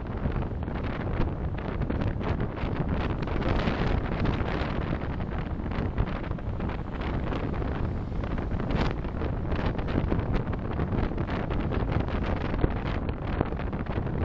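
Steady road and wind noise of a moving car, picked up by a dashcam microphone, with wind buffeting the microphone.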